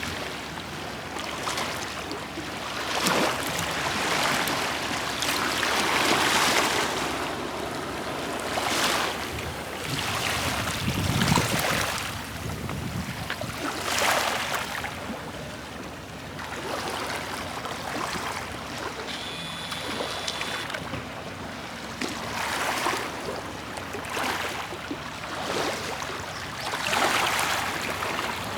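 Sea waves surging and washing in, rising and falling every two to three seconds.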